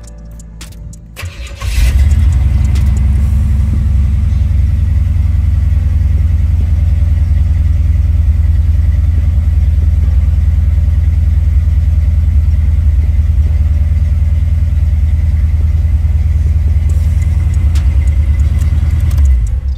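Box Chevy Caprice's engine starting about two seconds in, then idling with a loud, deep exhaust rumble heard from inside the cabin; the sound stops abruptly near the end.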